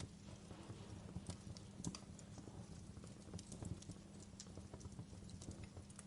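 Wood fire in a fireplace crackling, with irregular small pops and snaps over a low, steady rumble of the flames.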